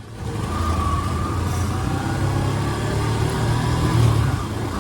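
Yamaha FZ150 motorcycle engine running steadily under way, with road and wind noise, as heard from the rider's position.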